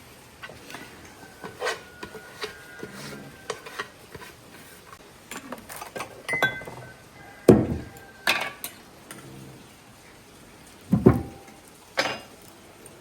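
Kitchen clatter: dishes, pots and utensils knocking and clinking, some clinks ringing briefly, with several louder knocks in the second half.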